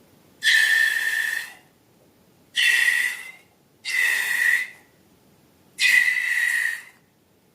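Air let out of a rubber balloon's neck, squealing in four bursts of about a second each: a high whistling tone with a hiss, dropping slightly in pitch as each burst goes on.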